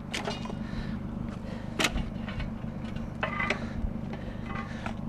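Metal bench ends being handled, giving several sharp clinks and knocks a second or so apart, over a steady low hum.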